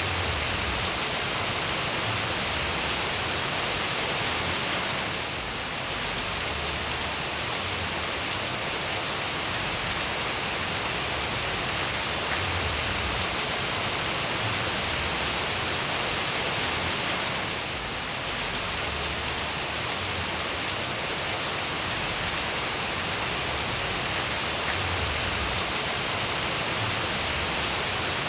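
Steady rain falling, a dense even hiss of drops, dipping briefly in loudness twice.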